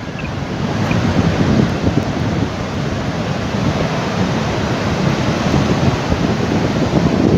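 Strong storm wind blowing across the microphone: a loud, even rumble and hiss with no breaks.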